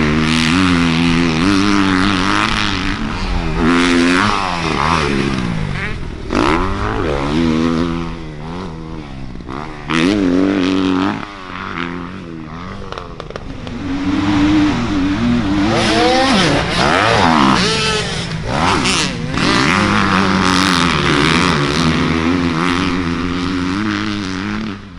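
Dirt bike engine revving up and down over and over as it is ridden, its pitch climbing and dropping with each burst of throttle, dipping quieter twice in the middle.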